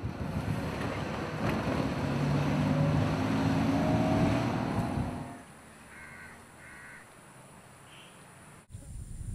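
An engine with a low hum swells and fades over the first five seconds, as of a vehicle passing. It is followed by two short harsh bird calls, caws, about six seconds in, and a fainter call shortly after.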